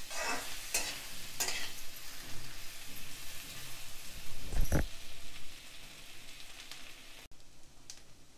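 A metal spatula scrapes and stirs taro (colocasia) pieces frying in oil in a wok, over a steady sizzle, with a dull thump about four and a half seconds in. Near the end the stirring stops and only a fainter sizzle goes on.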